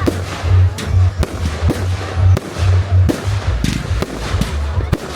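Fireworks going off in a display, a rapid series of sharp bangs and crackles of uneven loudness, over a low pulsing bass.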